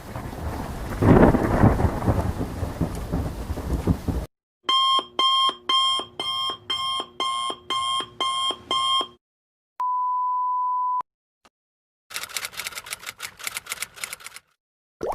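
A run of stock sound effects separated by short silences: thunder with rain for about four seconds, then an alarm clock beeping about nine times in a steady rhythm, a single steady beep about a second long, and a short burst of rapid clicking.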